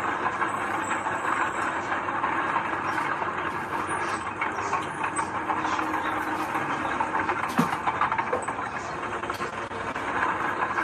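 Heavy earthmoving machine running steadily, with a dense metallic clatter and rattle throughout.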